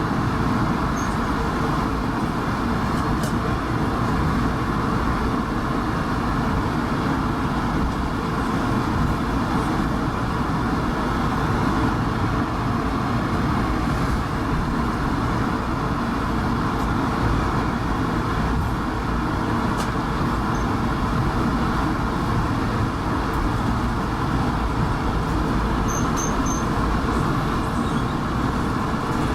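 Steady cabin rumble of an Airbus A220-300 taxiing after landing, its engines at idle, with a few faint rattles and ticks.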